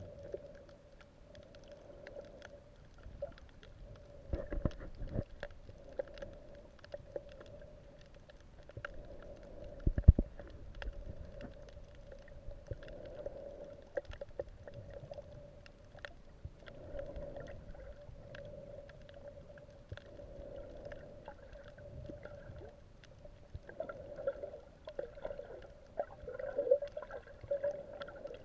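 Muffled underwater sound picked up by a camera under water: a steady hum with many scattered small clicks and low water rumbles, and one loud knock about ten seconds in.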